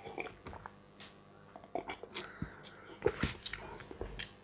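Faint eating sounds: quiet chewing with a few short, light clicks scattered through.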